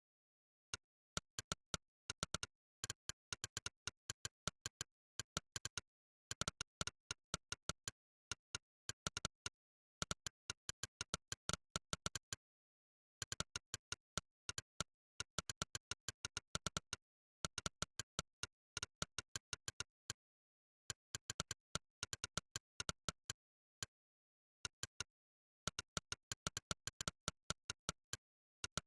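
Monkeytype's 'click' keypress sound effect: a short, sharp click for each keystroke, coming in rapid runs with brief pauses between them, over dead silence.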